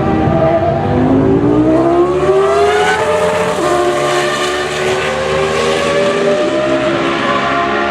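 The Cosworth 3.0-litre V10 of a 2006 Toro Rosso STR1 Formula One car accelerating hard. The engine note climbs for about three seconds, then drops sharply at upshifts: twice close together about three seconds in, and again past six seconds, before it rises once more.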